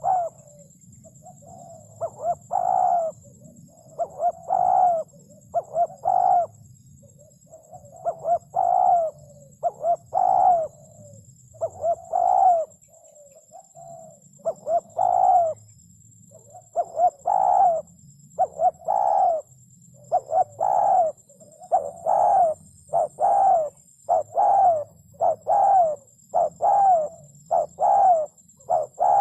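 A spotted dove cooing over and over, in phrases of several short coos followed by short pauses.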